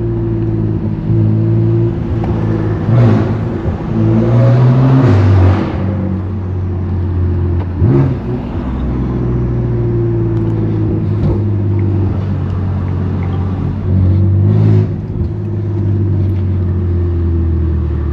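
BMW S55 twin-turbo inline-six of a 2018 F80 M3 Competition with a straight-pipe exhaust, cruising through traffic at low revs with a steady drone. Short bursts of throttle swell it louder several times, most strongly about three and five seconds in, around eight seconds, and near fifteen seconds.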